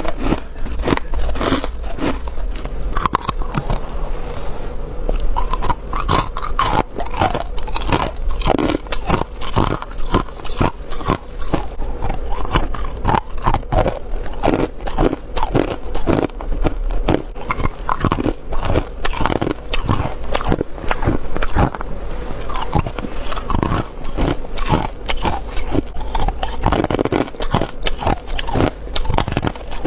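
A person biting and chewing frost: a continuous run of rapid, crisp, squeaky crunches.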